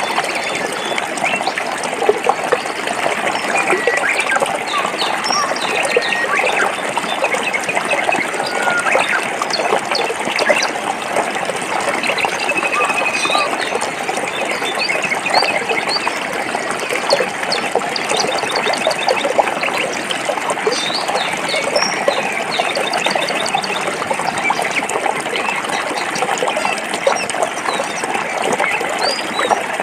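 Forest stream running over rocks: a steady burbling rush of water. Birds call over it with short high chirps and a few quick trills.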